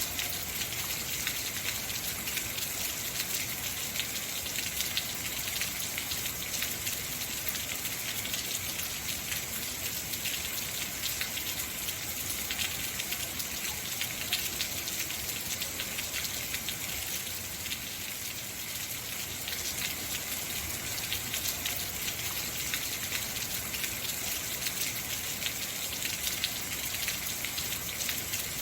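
Heavy rain falling steadily, a dense hiss of countless drops striking surfaces, without let-up.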